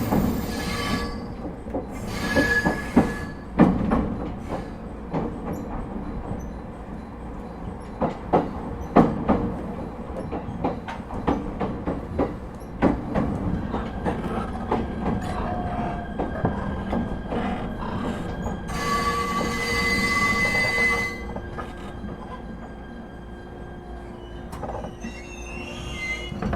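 Running sound inside an ET127-series electric train fitted with a Toyo IGBT VVVF inverter: wheel and rail noise with many sharp rail-joint clicks. High wheel squeal rings twice in the first three seconds and again about two-thirds of the way through, and a steady inverter whine sets in about halfway.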